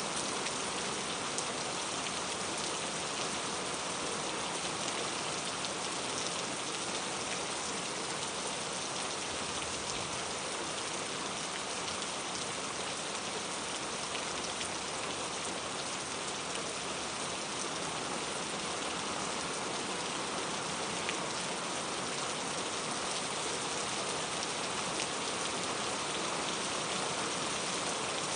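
Steady rain falling, an even hiss with many fine drop ticks on hard surfaces.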